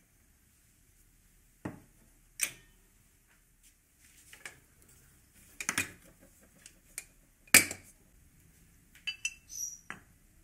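Hard household objects, dishes or utensils, being handled: scattered sharp clinks and knocks, some with a short ring. The loudest comes about three-quarters of the way through, with a quick cluster of small clinks near the end.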